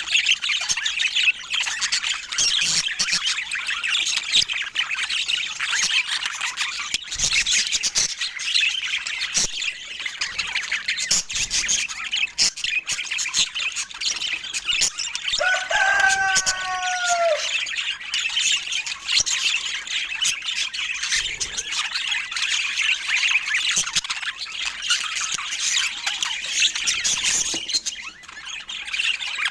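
A flock of budgerigars chattering and squawking, a dense, continuous high warble. About halfway through, one lower, longer call ends in a falling glide.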